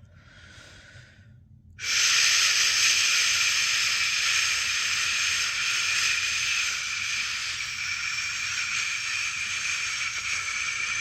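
A person's long, steady 'shhh' shushing sound for lulling a newborn to sleep, loud and even, starting about two seconds in after a brief softer shush.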